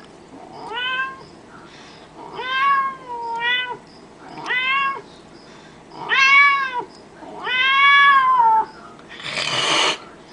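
A woman's vocal impression of a kitten: about six meows in a row, each one rising and falling in pitch, the later ones longer and louder, followed near the end by a short hissing burst.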